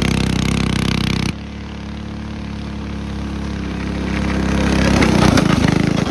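Mini bike's small engine running hard. About a second in, the sound cuts abruptly to a quieter engine that then grows steadily louder as the bike draws near, peaking near the end.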